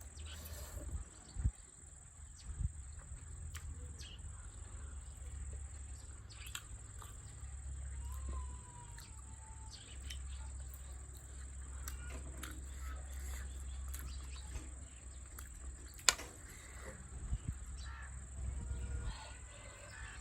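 Quiet eating sounds at a table: scattered soft clicks and taps of a utensil on dishes, with one sharp click about sixteen seconds in, over a steady low hum and a steady high tone. A short chirp sounds about eight seconds in.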